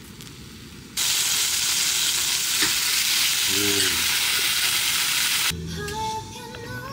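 Food sizzling in a hot frying pan, a loud steady hiss that cuts in about a second in and stops abruptly with about a second and a half to go.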